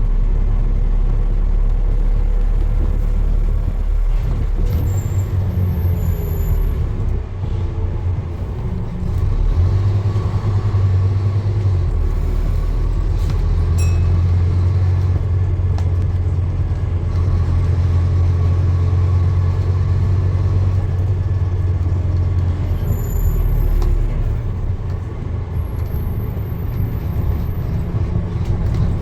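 Low, steady rumble of a motor vehicle running, its pitch and strength shifting a few times.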